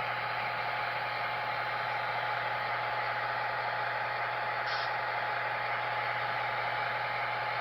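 Steady, hissy diesel engine sound from the small onboard speaker of an N-scale Broadway Limited F7-B model locomotive's Paragon 4 sound decoder. A brief faint tick comes just under five seconds in.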